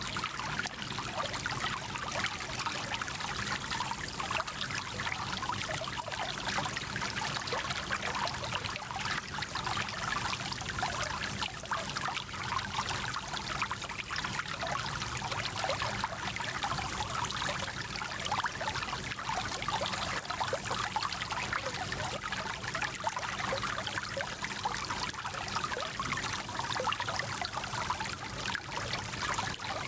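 Small mountain stream running over stones: a steady trickling and babbling rush of water.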